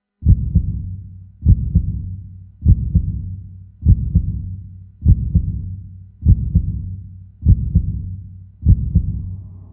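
Heartbeat sound effect: slow, deep double thumps about 1.2 seconds apart, eight in all, over a low hum.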